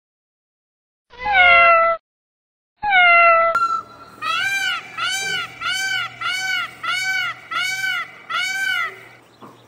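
A male Indian peafowl calling a rapid run of about eight loud, cat-like honks, each rising and then falling in pitch. Two shorter cries that fall in pitch come before the run.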